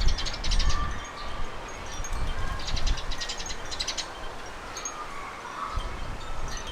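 Garden birds calling in short bursts of rapid, high chattering notes, with faint single whistles in between. Low wind gusts buffet the microphone at the start and again near the end.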